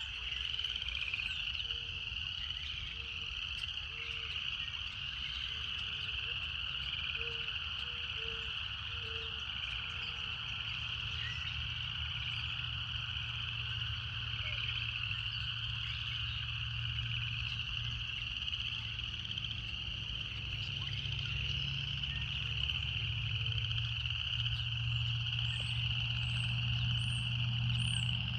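Cicadas singing in a continuous high buzzing chorus that swells and eases slightly, with a row of short low calls repeating through the first half.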